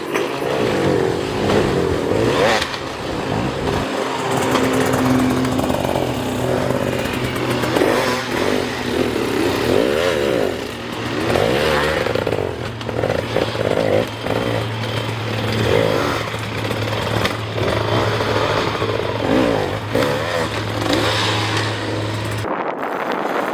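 Enduro motorcycle engines revving up and down over and over, the pitch climbing and dropping with each burst of throttle. A steady low hum runs underneath and cuts off suddenly near the end.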